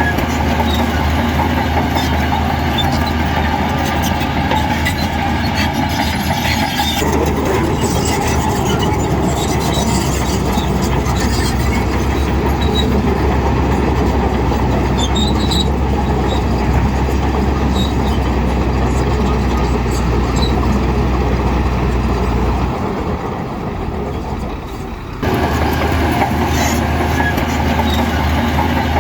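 Heavy diesel earthmoving machinery running steadily under load. The sound shifts abruptly about seven seconds in, then drops away for about two seconds near the end before coming back.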